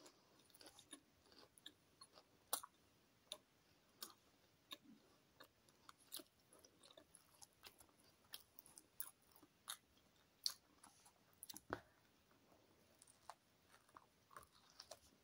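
Faint, close-up chewing of a crusty chicken baguette with lettuce: irregular small mouth clicks and crunches of bread crust, a few each second. One soft low knock comes near the end.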